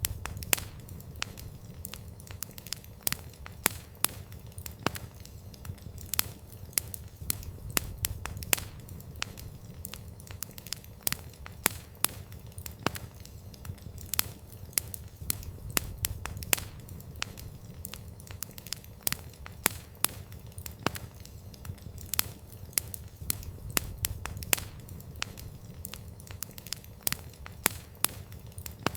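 Wood campfire burning steadily, with frequent sharp, irregular crackles and pops from the burning wood over a low rumble of the flames.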